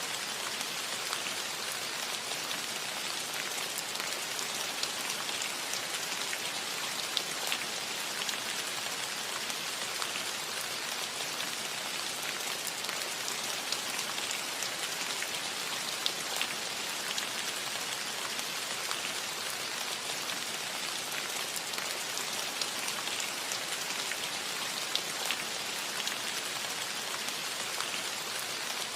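Gentle rain falling steadily on a metal roof: an even hiss with scattered ticks of single drops striking the metal.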